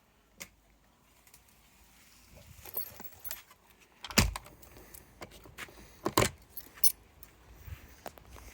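Metallic jingling and rattling with a scatter of sharp clicks and knocks, the loudest knock about four seconds in and another about two seconds later.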